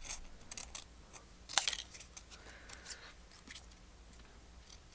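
Small scissors snipping through thin paper in short, scattered cuts, fussy cutting around a small printed bird; the sharpest snip comes about a second and a half in, and the cuts thin out after the first couple of seconds.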